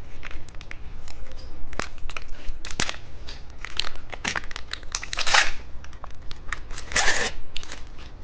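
Plastic candy wrappers crinkling and tearing as they are handled and opened, with many sharp clicks and two longer rips about five and seven seconds in.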